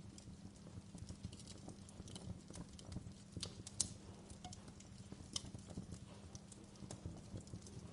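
Wood fire crackling in a fireplace: irregular small pops and snaps over a low steady rumble of the burning fire, with one louder snap near the middle.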